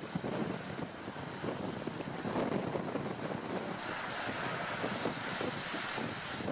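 Wind buffeting an outdoor microphone, with an uneven low rumble and a brighter rushing hiss that swells about four seconds in.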